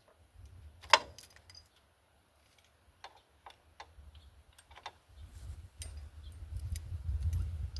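Scattered metallic clicks and knocks of hand tools working on rusty shock absorber mounts, with one sharp knock about a second in. A low rumble comes in from about five seconds in.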